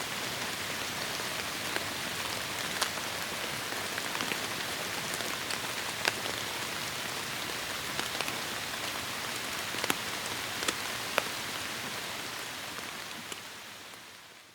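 Heavy rain falling in a forest: a dense, steady hiss with scattered sharp ticks of individual drops striking close by. The rain fades away over the last couple of seconds.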